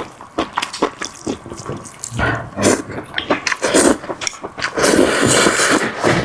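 Close-miked wet eating sounds: mouth clicks and smacking while chewing, with a longer slurp near the end.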